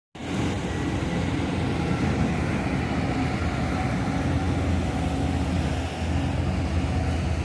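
Motor vehicle on the move: a steady low rumble of engine and road noise.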